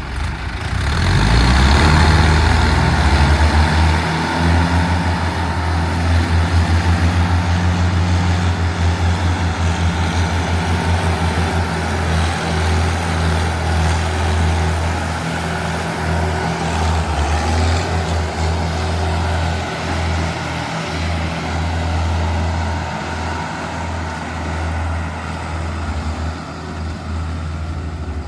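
Mahindra Arjun tractor's diesel engine revving up in the first couple of seconds, then running steadily with a pulsing low beat while pulling a fully loaded wooden trolley.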